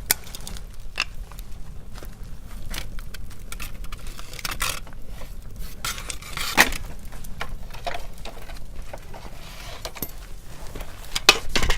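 Wood bonfire crackling and popping: irregular sharp snaps over a low rumble, with a louder pop about six and a half seconds in.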